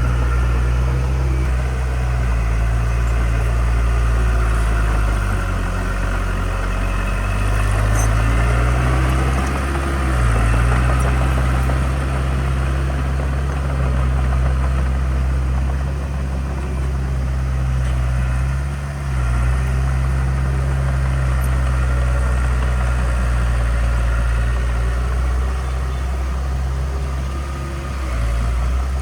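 Diesel engine of heavy earthmoving equipment running steadily with a deep, low note, its pitch and load dipping briefly a few times.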